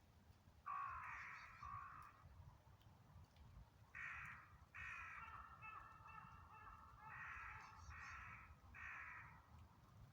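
A crow cawing, faint: one long harsh caw about a second in, then a run of five or six caws from about four seconds in.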